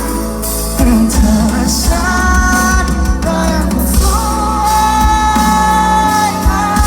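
Live pop-rock band playing a ballad, with long held notes over guitar and bass.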